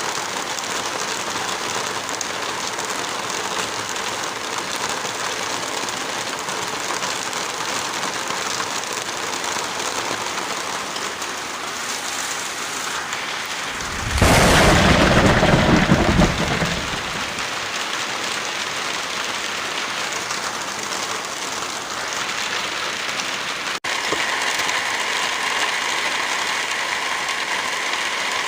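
Heavy rain falling steadily. About fourteen seconds in, a loud, deep burst lasts about two and a half seconds. Near the end the rain sound changes abruptly and a few steady tones sound over it.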